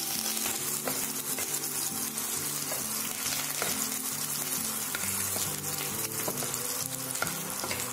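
Green chillies, dried red chillies and curry leaves sizzling in hot oil in a pan, with scattered sharp crackles, stirred with a wooden spatula.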